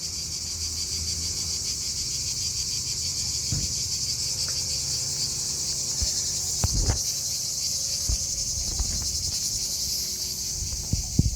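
Steady insect chorus, an unbroken high-pitched trill of many insects together, typical of crickets. A few soft low knocks come through about three and a half and seven seconds in, and again near the end.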